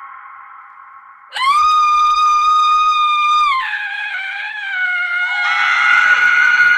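Women's high-pitched screams: a fading scream dies away, then about a second and a half in a loud shrill scream starts suddenly and holds one steady pitch for about two seconds before dropping lower and wavering. A second shrill scream comes in near the end.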